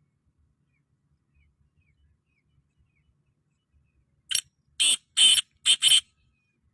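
Black francolin calling: one harsh phrase of five loud, grating notes, starting about four seconds in and over in under two seconds.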